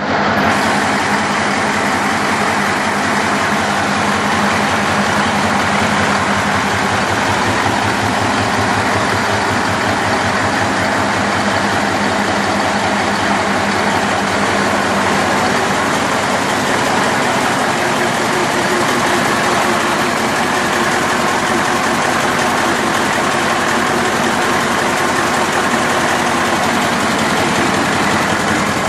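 Caterpillar 3408E V8 diesel engine running steadily at a constant speed on test.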